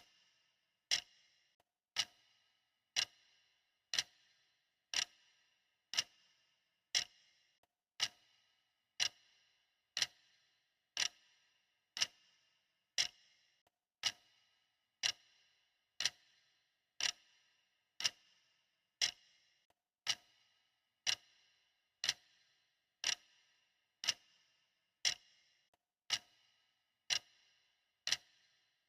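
Clock ticking steadily, one sharp tick about every second, each with a brief ring after it.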